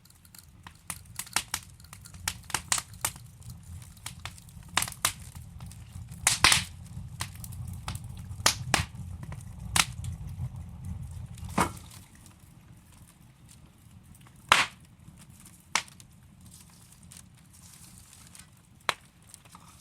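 Wood logs burning in a fireplace, crackling with irregular sharp pops and snaps over a low rumble. About twelve seconds in the rumble drops away and the pops become sparser.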